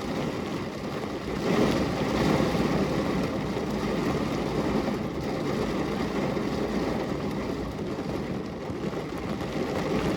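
Heavy rain falling as a steady, dense rush of noise, growing louder about a second and a half in.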